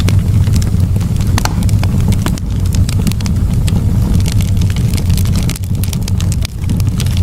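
Campfire burning, with irregular crackles and sharp pops of burning wood over a steady low rumble.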